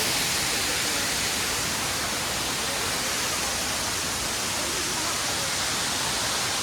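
Kuyemari waterfall's water crashing down, a steady, unbroken rushing hiss that is loud enough to drown out a voice.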